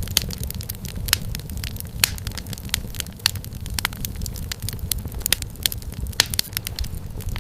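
Wood fire crackling in a fireplace: frequent sharp, irregular pops and snaps of burning firewood over a steady low rumble of the flames.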